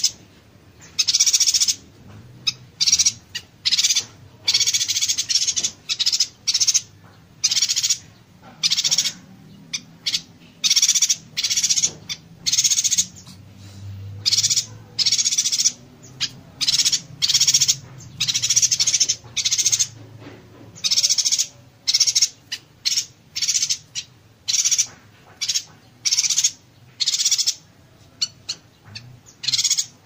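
Yuhina songbird giving rapid-fire, buzzy bursts of high-pitched song, many short bursts in quick succession with brief pauses between them.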